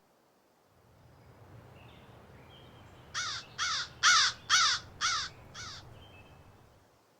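A crow cawing six times in quick succession, about two harsh caws a second, loud against a faint low rumble of the forest background.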